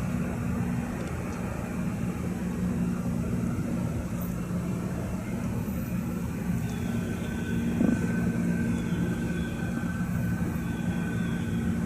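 Norfolk Southern double-stack freight train rolling past: a steady rumble with a low, even hum, faint high squeals from about halfway through, and a single clunk near the end.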